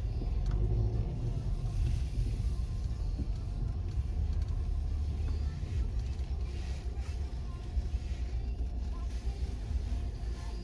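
Steady low rumble of car road noise, as from a car driving along a street.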